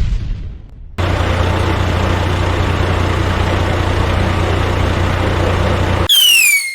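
Truck engine idling steadily with a deep rumble. It starts abruptly about a second in after the fading tail of a boom, and cuts off suddenly near the end, where a falling whistle begins.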